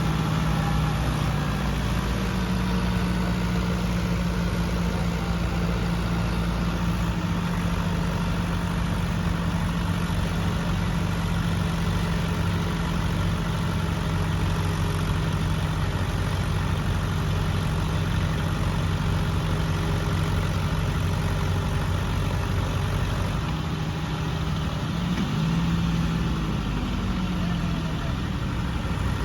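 Tractor diesel engine running steadily under heavy load in a tug-of-war pull, with a brief dip and rise in engine pitch near the end.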